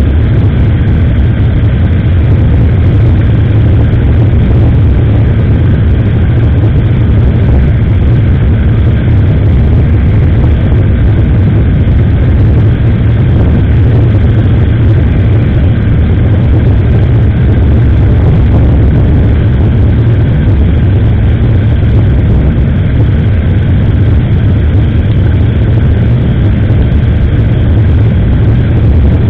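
Steady, loud wind rush and road noise on an action camera's microphone while riding a motorcycle, with the engine running underneath. It is unbroken throughout, heaviest in the low rumble.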